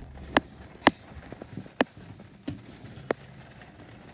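Rain falling, with irregular sharp taps of drops striking a nearby hard surface, roughly one a second, over a faint steady hiss.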